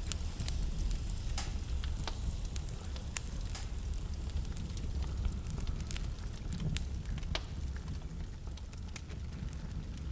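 Wood fire burning in a fireplace: a steady low rumble of flames under frequent sharp crackles and pops from the burning logs, a few louder pops scattered through.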